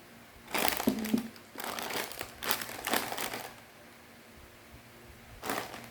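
Plastic snack packaging crinkling as it is handled, in several bursts over about three seconds and once more briefly near the end.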